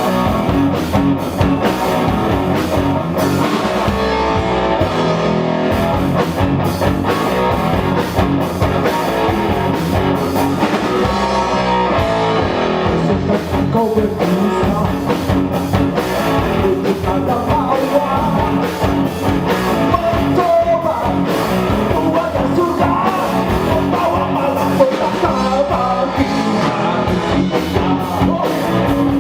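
Live rock band playing steadily, with guitar and drum kit and a singing voice.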